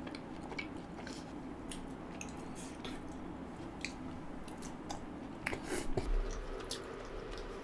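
Close-up eating sounds: chewing a bite of butter naan soaked in butter chicken gravy, with scattered wet mouth clicks and smacks.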